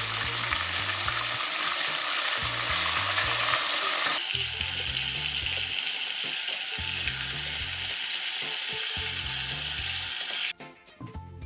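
Chicken pieces deep-frying in hot oil with a loud, steady sizzle, given a second fry to make them crispier. The sizzle cuts off suddenly near the end, leaving background music with a repeating bass line.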